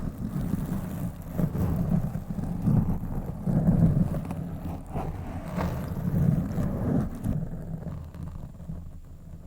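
Fingers scratching and rubbing directly on a microphone, a low, irregular rumbling scrape with a few sharper scratches, growing softer in the last couple of seconds.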